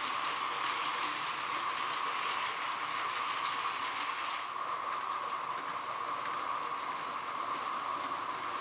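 H0-scale model trains running on a layout: a steady hum and whirr of small motors and wheels rolling on the track. The higher hiss eases slightly about halfway through.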